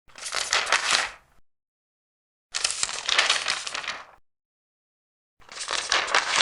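Large paper pages being turned one at a time: three rustling, crinkling turns, each lasting a second or so, with silent gaps between them.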